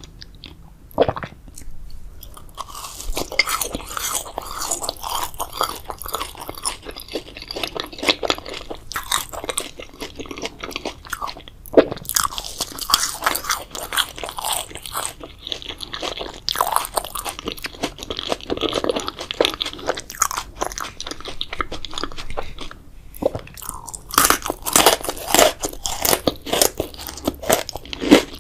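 Close-miked biting and chewing of a grape jelly dessert: wet, irregular mouth clicks and crackles, with a sharp bite about twelve seconds in and a denser run of bites near the end.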